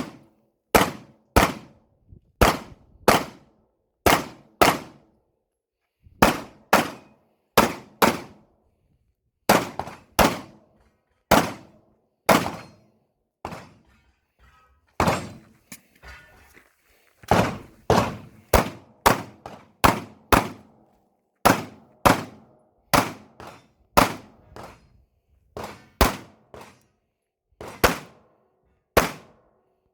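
A Glock 19X 9mm pistol fired over and over through a shooting stage, mostly in quick pairs about half a second apart, with short pauses between pairs. Each shot is sharp and rings briefly.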